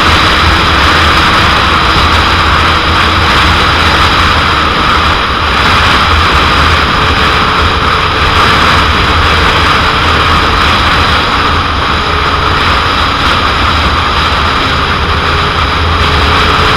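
Heavy, steady wind noise rushing over the microphone of a moving 2001 Suzuki GSX-R750, with the bike's inline-four engine faint underneath.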